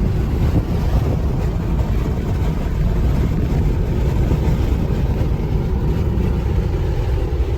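Steady low road and tyre rumble of a Tesla Model 3 electric car driving at speed.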